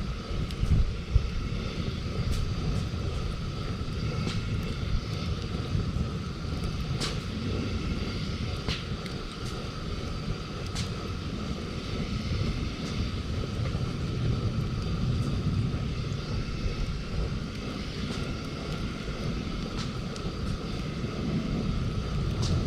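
Wood campfire crackling, with scattered sharp pops a few seconds apart over a steady low rumble.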